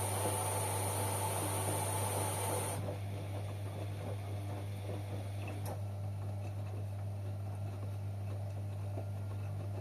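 Washing machine running: a steady low hum with a loud hiss on top that cuts off suddenly about three seconds in, leaving the hum and faint soft knocks.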